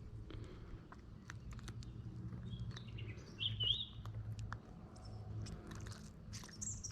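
A bird's short warbling chirp about halfway through, over scattered faint clicks and knocks and a steady low background rumble.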